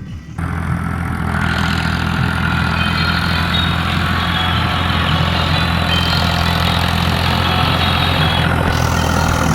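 Farmtrac 45 tractor's diesel engine running steadily at a low, even speed, cutting in abruptly about half a second in.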